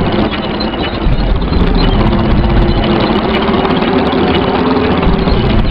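Tractor engine idling with a steady, loud low rumble.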